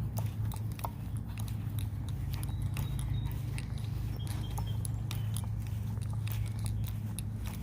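Crunching and crackling of leaves and twigs underfoot on a woodland walk: many irregular sharp clicks over a steady low rumble.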